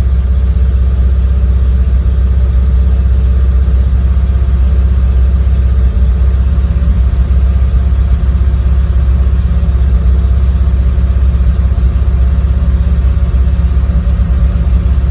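Car engine with CIS (Bosch K-Jetronic) continuous fuel injection idling steadily while warming up a few minutes after a cold start, throttle untouched. The engine is running as part of the owner's troubleshooting of its CIS cold-start behaviour.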